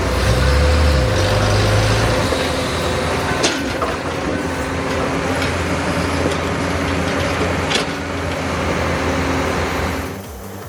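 A heavy vehicle's engine running steadily amid mechanical noise, with two sharp knocks about three and a half and eight seconds in; it fades near the end.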